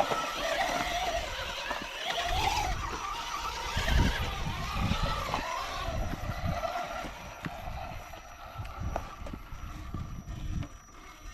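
Electric motor and gearbox of an RC rock crawler whining, rising and falling in pitch with the throttle and fading after about six seconds. Wind gusts buffet the microphone.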